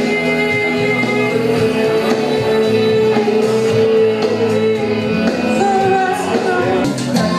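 Music with a singing voice. The voice holds one long note for about four seconds, then moves through shorter notes over the band.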